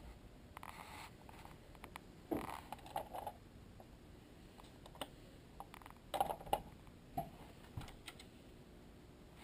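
A few faint, scattered clicks and knocks over quiet room tone, coming singly or in quick pairs, the loudest ones a little over two seconds in and again around six seconds.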